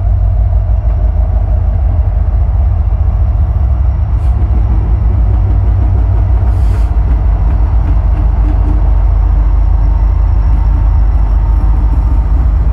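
Train passing, a steady heavy low rumble with a couple of short clicks.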